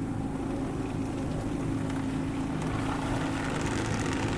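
Steady low droning hum heard from inside a car's closed cabin in a touchless automatic car wash, with a faint hiss of water spray building near the end.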